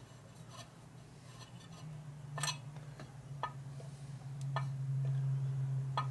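Light metal clicks and taps, about five of them a second or so apart, as metal parts are handled and test-fitted, over a low steady hum that grows louder near the end.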